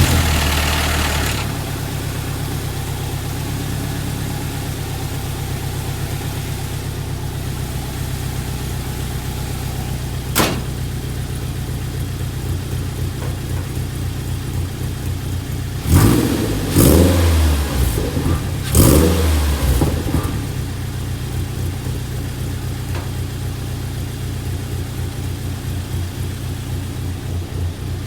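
Shop truck's engine idling steadily just after starting, its throttle blipped three times between about sixteen and nineteen seconds in. There is a single sharp click about ten seconds in.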